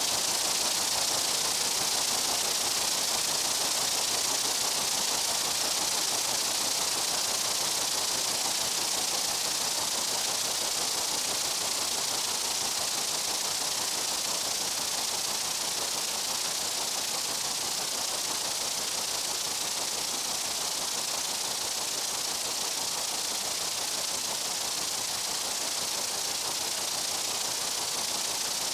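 Steady, even insect buzzing in a summer meadow, a high hiss-like drone that does not change.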